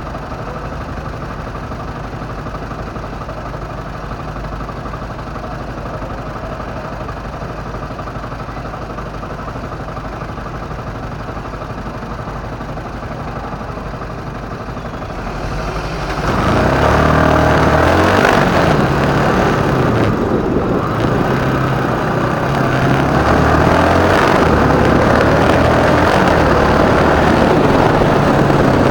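Motorcycle engine idling steadily, then about sixteen seconds in it pulls away. It gets louder, and the engine note climbs and drops in steps as it goes up through the gears.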